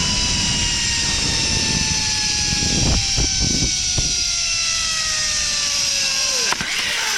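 Zip-line trolley pulleys whining along the steel cable at speed, with heavy wind rush on the microphone. The whine falls slowly in pitch as the ride slows, with a few knocks in the middle, then drops sharply with a knock near the end.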